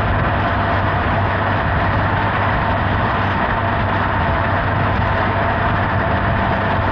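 Honda Hornet 900 (CB900F) inline-four engine running steadily at cruising speed under a steady rush of wind noise.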